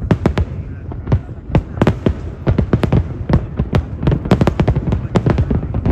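Aerial fireworks going off in rapid succession: a dense run of sharp bangs and crackles, several a second.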